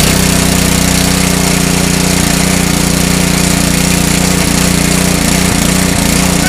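Honda 5 hp OHV engine on a pressure washer running steadily at high speed. The washer's pump is turning with no water supplied, which an onlooker warns will burn the pump out.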